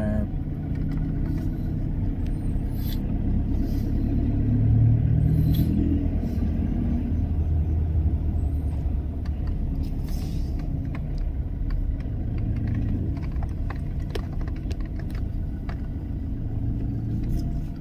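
A road vehicle on the move, a steady low engine and road rumble that grows louder about four to six seconds in.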